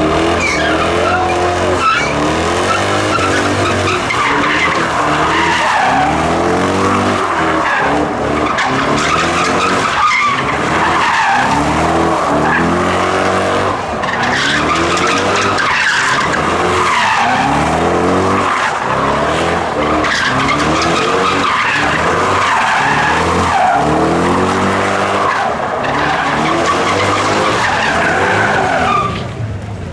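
A car doing donuts: its engine revs up in repeated surges about every two seconds while the rear tyres squeal and skid continuously.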